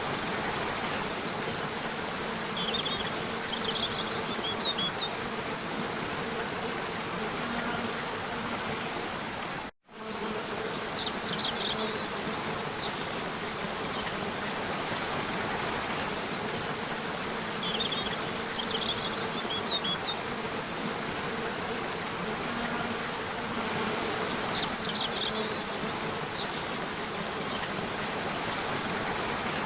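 Nature-sounds soundscape: a steady, even hiss with short, high chirps recurring every several seconds. The sound cuts out suddenly for an instant about ten seconds in.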